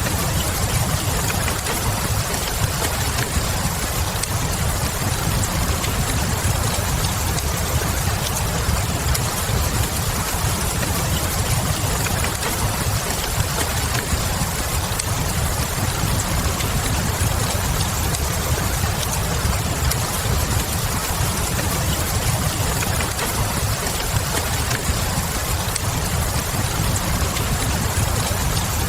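Steady rain mixed with the crackle of a wood fire, with small clicks and pops scattered through. A steady low rumble runs underneath.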